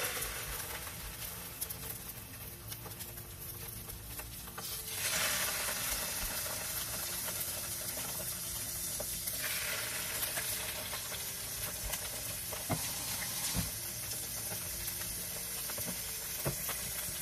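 Salmon fillets sizzling in hot oil in a nonstick frying pan, the sizzle starting as the first fillet goes in and growing louder about five seconds in, then again near ten seconds, as more fillets are laid in. A few light ticks sound near the end.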